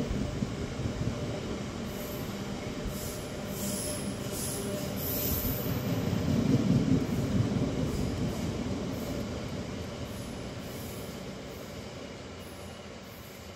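Loaded stone hopper wagons of a long freight train rolling past on the track: a steady low rumble with short, high wheel squeals a few seconds in. It grows loudest around the middle, then fades as the train draws away.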